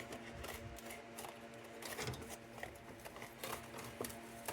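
Faint, scattered small clicks and scrapes of a vintage lantern's sheet-metal burner being twisted and worked loose from where it is stuck, over a faint steady hum.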